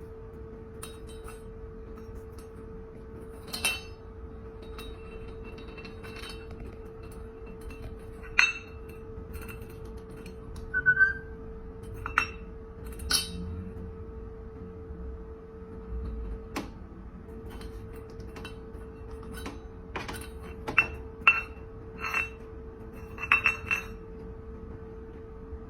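Irregular sharp clinks and taps, some in quick clusters, over a steady hum, with one brief chirp about eleven seconds in.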